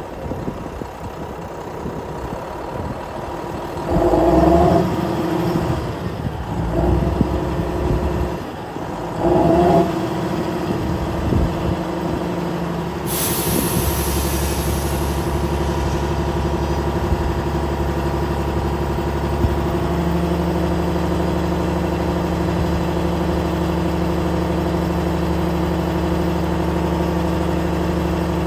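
Kenworth W900 mixer truck's Cummins ISM diesel engine running, with two brief louder surges about four and nine seconds in. A short hiss of air comes about thirteen seconds in. The engine note steps up about twenty seconds in and then holds steady.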